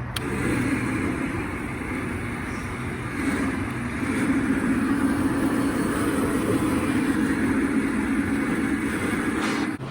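A motor vehicle running, a steady drone that grows louder about four seconds in.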